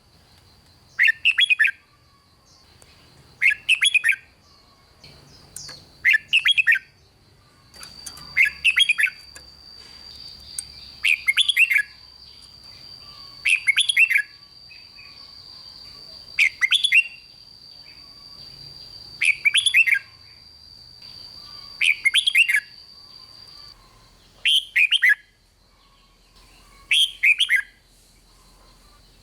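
Red-whiskered bulbul singing its short, loud whistled phrase over and over, one phrase roughly every two and a half seconds, about eleven times. A faint steady high whine sits behind the song for much of the time.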